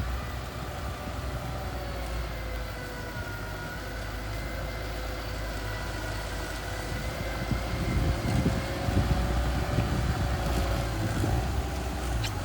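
Mini bulldozer's engine running, a steady low rumble with a high whine over it, growing louder and rougher about eight seconds in.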